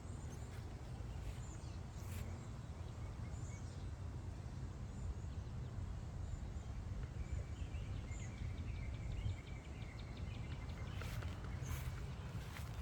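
Steady low outdoor background rumble, with a few faint, short, high bird chirps and a thin high insect-like tone in the second half.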